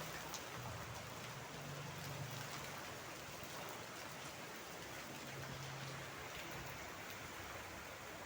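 Steady rain falling, an even hiss with scattered drop ticks, and a low hum underneath.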